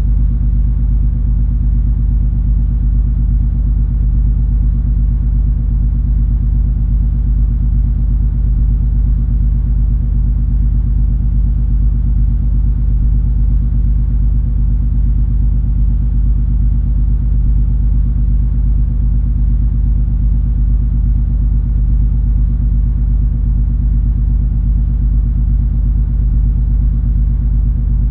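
Steady, unchanging low engine drone of the cruise ferry MS Color Magic under way: a deep rumble with a few steady hum tones running through it.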